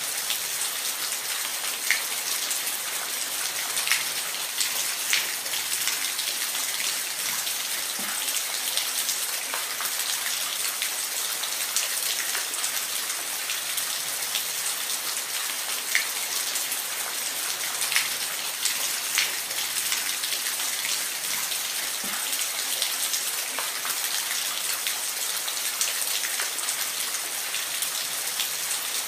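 Steady rain, a constant high hiss with scattered louder drips and ticks of drops hitting a surface.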